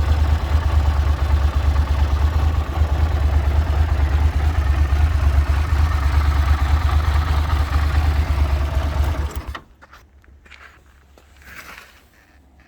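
Yamaha TDM 850 parallel-twin motorcycle engine idling steadily, then cutting out suddenly about three quarters of the way through as it is switched off. A few faint clicks and a short scrape follow.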